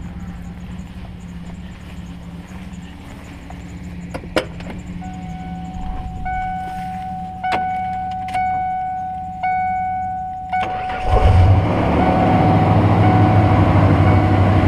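A dashboard warning chime dings about once a second. About eleven seconds in, the 1996 Ford Bronco's 5.8-litre V8 turns over and fires, then runs steadily and loud through a Flowmaster muffler. This is a cold start after sitting about six months on year-old gas.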